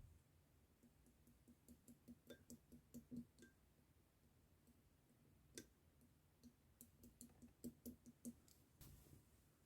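Faint small clicks and pops of clear slime being handled, in two runs of quick clicks with a single sharper pop in between.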